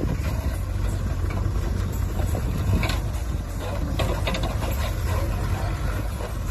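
Tractor diesel engine running steadily at a low, even pitch, with a few brief knocks about three and four seconds in.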